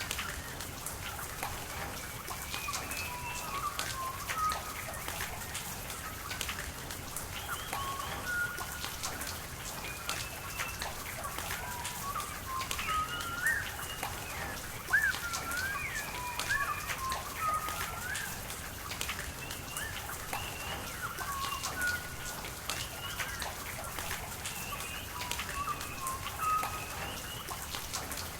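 Steady rain falling and water running, with drops pattering, while birds call throughout in many short chirps and whistles.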